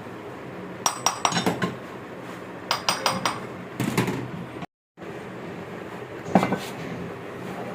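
Metal parts and tools clinking and knocking together in four short clusters of sharp strikes, over a steady low hum; the sound cuts out briefly just before the midpoint.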